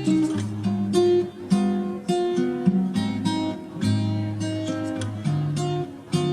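Background music: acoustic guitar playing a run of plucked notes with some strummed chords.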